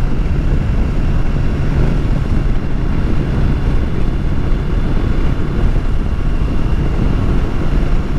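Motorcycle engine running steadily while riding, with wind rushing over the rider's microphone.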